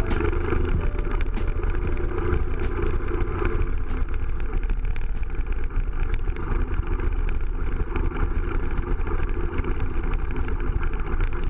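Honda CRF80F dirt bike's single-cylinder four-stroke engine running steadily while it is ridden.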